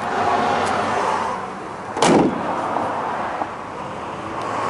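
A single loud slam about two seconds in, over steady vehicle noise.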